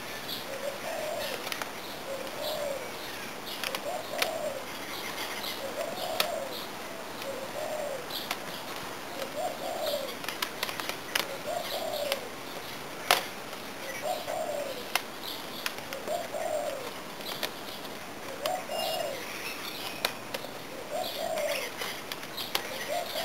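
A bird cooing, a short call repeated every second or two, with other birds chirping faintly. Scattered sharp clicks and taps, the loudest about 13 seconds in.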